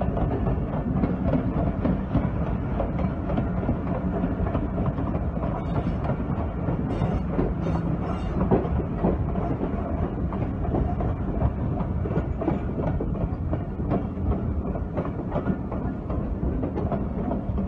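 Moving passenger train heard from the open doorway of a coach: steady rumble of the running gear, with the wheels clicking over rail joints and points.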